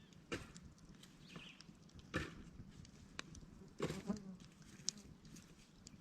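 Campfire crackling, with a few sharp pops and cracks spaced a second or two apart.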